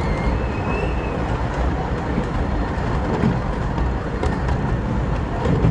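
Redwood Valley Railway's 15-inch-gauge miniature steam train rolling along the track, heard from on board: a steady rumble of wheels on rails with a few faint clicks.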